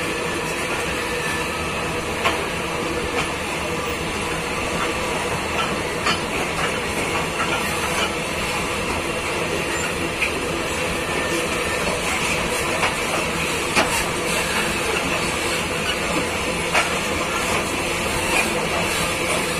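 A freight train's open-top steel wagons rolling past: steady noise of steel wheels running on the rails, with a short sharp click every few seconds as the wheels pass over rail joints.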